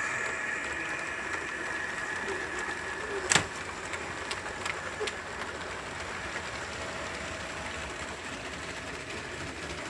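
LEGO model EMD F7 locomotive running along the track: its LEGO train motors whir steadily while its DCC sound unit plays a diesel engine running sound through a small speaker. There are a few clicks, the loudest one sharp, about three seconds in.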